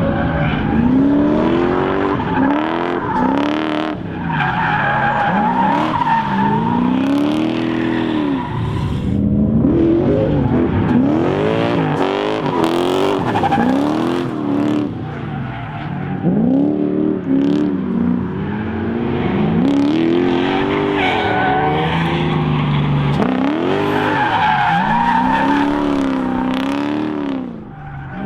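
Lexus 1UZ V8 in a Mazda B2200 drift truck, revved up and dropped again over and over, about once a second, as the truck drifts, with tires squealing and skidding underneath.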